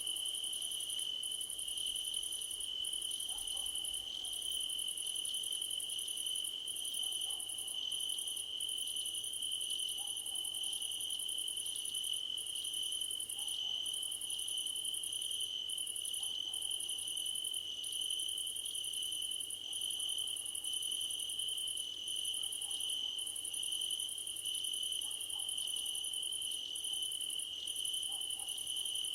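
Crickets singing in grass: one continuous high, steady trill, layered with a still higher, shrill insect song that breaks off briefly about once a second.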